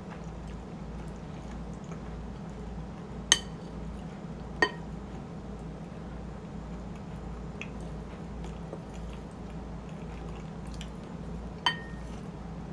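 Three sharp clinks of an eating utensil against a dish, each ringing briefly, the first two about a second apart and the last near the end, over a steady low hum.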